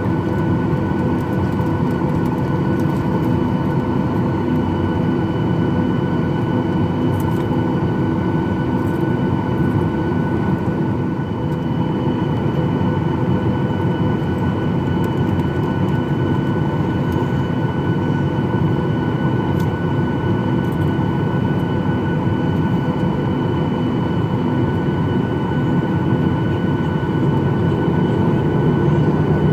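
Boeing 737-800 cabin noise, with the CFM56-7B engines running: a steady rush of air and engine noise carrying several constant whining tones.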